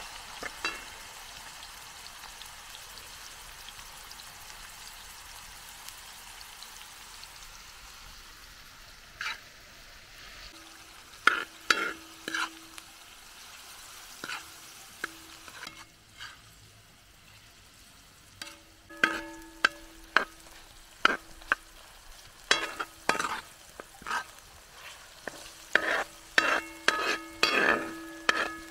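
Food frying in a pan with a steady sizzle. From about nine seconds in, a metal utensil stirs and knocks against the metal pot, and many of the strikes leave a short ringing tone.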